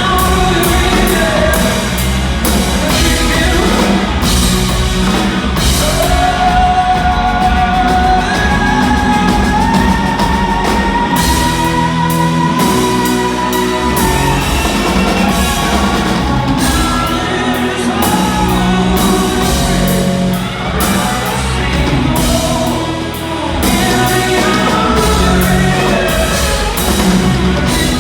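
Rock band playing, with drum kit and guitar under a singer holding long, wordless notes that step upward in pitch in the first half.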